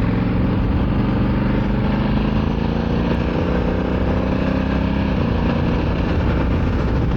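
Honda Africa Twin motorcycle's 1084 cc parallel-twin engine running at steady revs over a constant rush of wind and road noise, its note shifting slightly about five seconds in.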